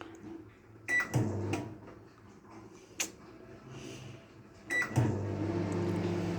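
LG microwave oven: a keypad beep about a second in, a click in the middle, and another beep near the end. The oven then starts up and runs with a steady hum.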